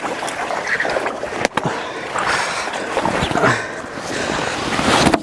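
Lotus leaves being picked by hand, rustling and snapping, with some water sounds.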